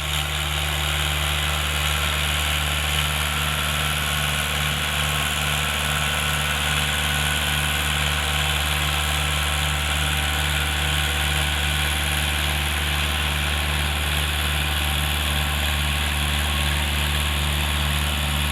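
Mahindra Arjun 555 tractor's four-cylinder diesel engine running steadily with an even low throb, no revving.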